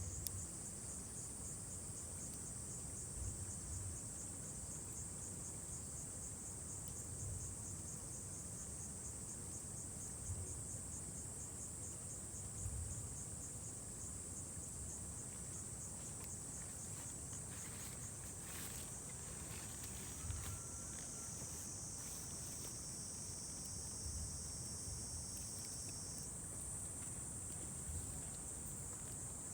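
A chorus of insects singing: a steady, high-pitched trill that pulses rapidly through the first half, with a second, slightly lower trill joining in the latter part and stopping abruptly a few seconds before the end. A few faint clicks sound near the middle.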